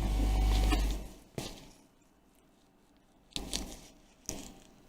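Heat gun blowing steadily, switched off about a second in and running down. Then a few light clicks and taps from tools being handled.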